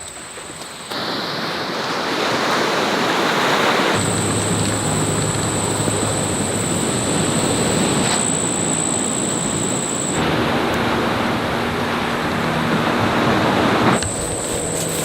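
Steady rushing outdoor noise like surf or wind, changing abruptly at several cuts, with a thin, steady high-pitched insect drone in some stretches.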